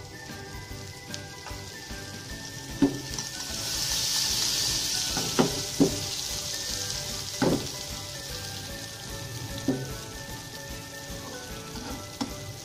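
Eggplant slices shallow-frying in oil in a nonstick pan: the oil sizzles steadily and swells much louder for a few seconds from about four seconds in. Several sharp knocks come from a spatula against the pan, over steady background music.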